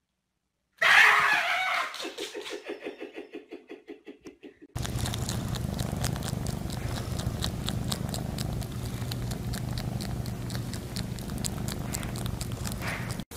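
A cat gives a loud cry about a second in, which trails off into a quick pulsing that fades away. About five seconds in, a steady low hum with rapid ticking takes over.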